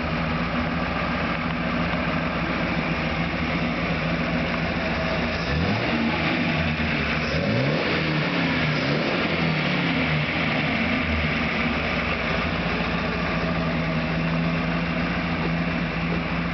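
1929 Stutz Model M's straight-eight engine idling, then revved up and down a few times about five seconds in before settling back to a steady idle.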